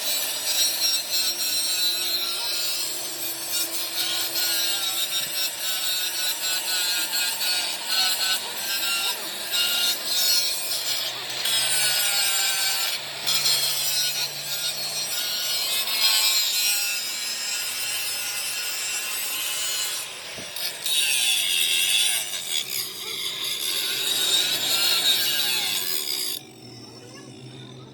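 Abrasive tool working the steel of an axle housing: a continuous rough rasping grind whose pitch wavers, stopping about a second and a half before the end.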